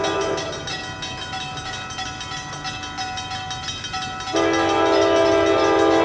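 ACE commuter train passing and sounding its horn, a chord of steady tones. One blast ends just after the start; after a few seconds of train running noise, a second, louder blast begins about four seconds in and is still going at the end.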